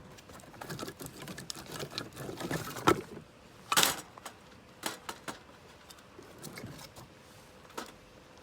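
Small objects being handled: a string of light clicks and knocks, a sharp knock about three seconds in and a short rustling burst just under a second later, then a few scattered clicks.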